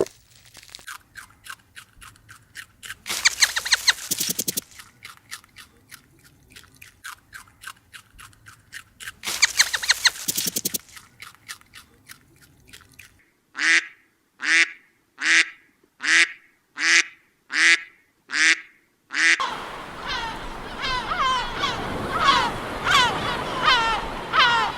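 A run of animal calls. First come rapid short clicks or chirps with two brief noisy bursts. About halfway in there is a string of eight evenly spaced quacks, like a duck's. The last few seconds are a dense chorus of chirping birds.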